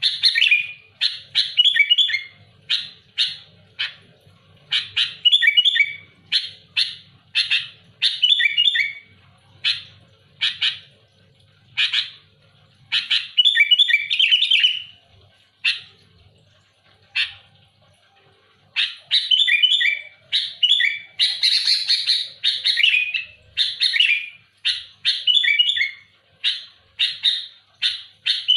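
Sooty-headed bulbul (kutilang) singing loudly in quick phrases of short chirps and harsh, rasping chatter notes, with a lull of a few seconds past the middle. This is the bird in full, aggressive song.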